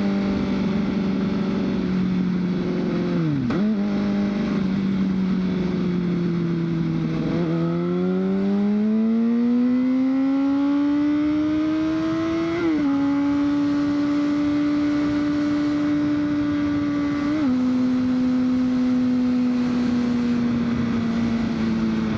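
A 2003 Honda CBR600RR's inline-four engine running under way, over steady wind rush. The engine note dips sharply and recovers about three and a half seconds in. From about seven seconds it rises smoothly for some five seconds as the bike accelerates, then drops as it shifts up, and drops a little again at a second upshift about five seconds later.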